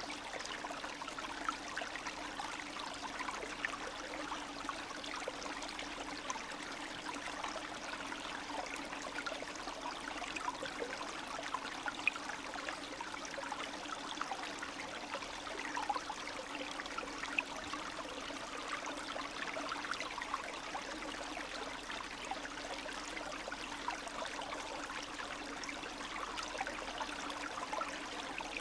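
Spring snowmelt stream running and trickling steadily, with a constant gurgle of small splashes.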